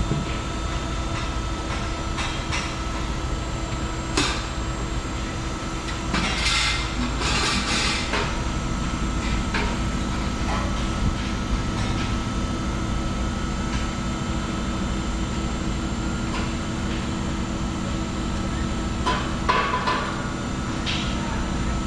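A few sharp knocks and taps, with a short stretch of rattling noise about six to eight seconds in, over a steady low hum.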